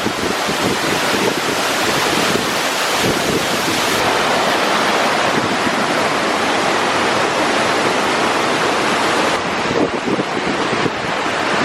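Waterfall pouring at close range: a loud, steady rush of water, with wind buffeting the microphone now and then.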